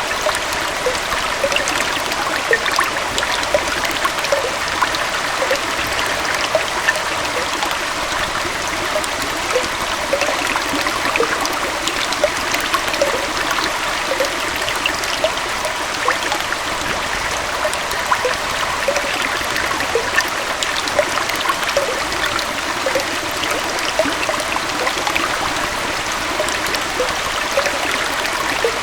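A small waterfall and stream running steadily, with close splashing and trickling over the continuous rush of water.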